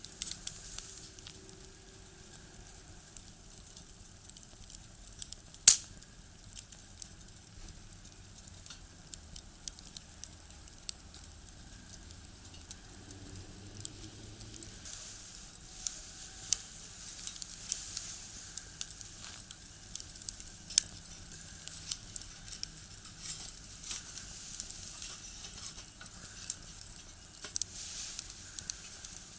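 Firewood burning in a small box stove, crackling with scattered sharp pops over a faint hiss. One loud pop comes about six seconds in, and the pops grow more frequent in the second half.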